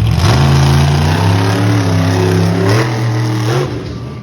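Monster truck engine revving, its pitch climbing and falling several times before it drops away near the end.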